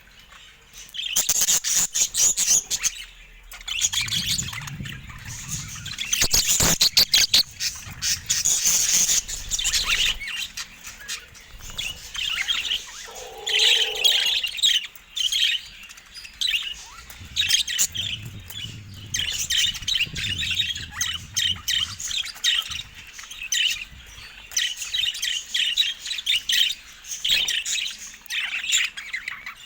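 Budgerigars chirping and chattering in rapid, continuous warbles, with a cluster of sharp clicks about six to seven seconds in and a short lower call near the middle.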